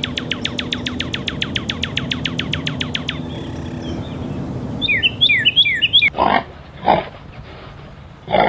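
A rapid, even run of clicks for about three seconds, then a quick series of repeated high falling chirps. Near the end come a few short pig grunts, one after another.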